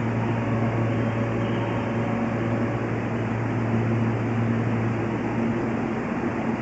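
Steady hum of a Keihan 13000 series electric train at the station platform, its pitch holding level throughout.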